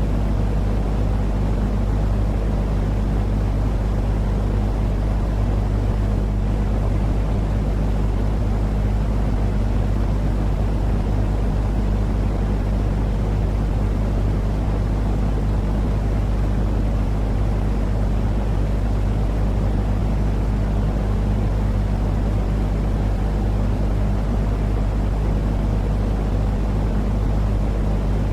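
Steady, deep rumbling noise with a constant low hum under it, unchanging: a sleep-noise track for soothing crying, colicky babies.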